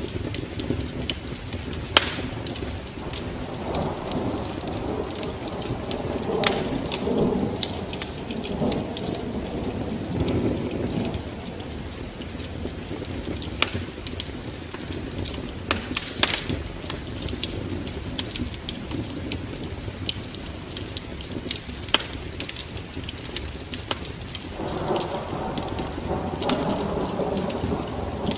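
Fireplace fire crackling, with many sharp, irregular pops over a steady rain-like patter; a low rumble swells about four seconds in and again near the end.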